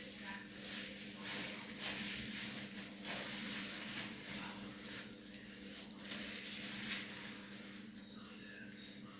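Soft irregular rustling and brushing close to the microphone, over a steady low electrical hum.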